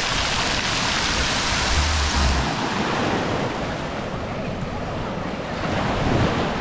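Small surf washing up a rocky shore: a wave rushes in loudest over the first couple of seconds, then eases off. Wind buffets the microphone about two seconds in.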